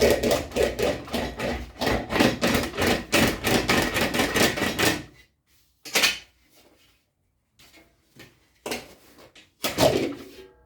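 Aluminium sheet being worked by hand in rapid, even strokes, about four to five a second, with a faint ring from the metal. The strokes stop about five seconds in, and a few separate knocks follow.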